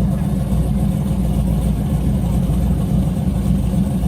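Turbocharged car engine idling, a steady low rumble with no revving.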